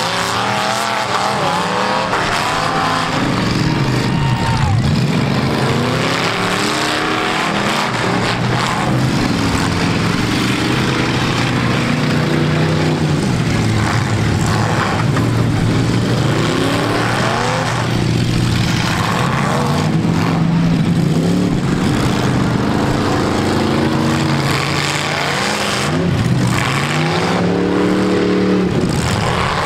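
Several V8 demolition-derby cars' engines revving hard, their pitch climbing and falling again and again as the cars drive, push and spin their wheels in the dirt.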